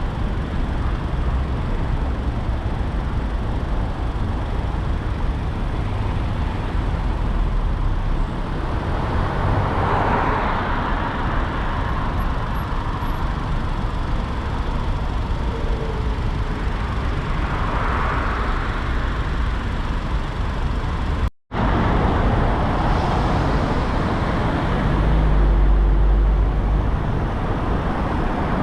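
Steady road noise of a car driving through city traffic, a low tyre-and-engine rumble with a hiss that swells twice. It cuts out for a split second about three-quarters of the way through, and the low rumble grows louder near the end.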